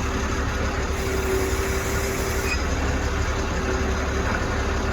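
Heavy truck engine running steadily, with a steady whine over the low rumble.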